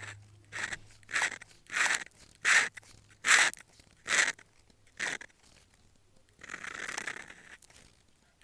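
Dip pen nib scratching across paper: a run of about seven short, quick strokes, then one longer, steadier scratch near the end.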